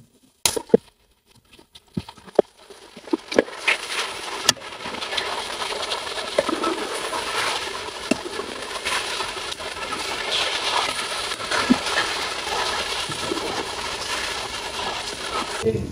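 Chicken pieces frying in hot ghee in a metal karahi: a few sharp knocks early on, then a steady sizzle with fine crackling that builds after about three seconds and stops abruptly just before the end.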